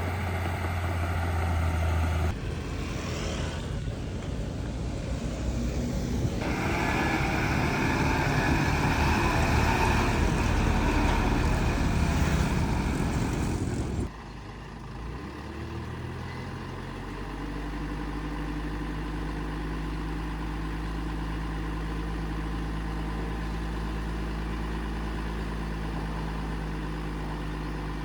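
Heavy diesel construction machinery engines running. For the first half they run loud under load with a busy mechanical clatter; the sound changes abruptly about halfway through to a steadier, quieter engine idle.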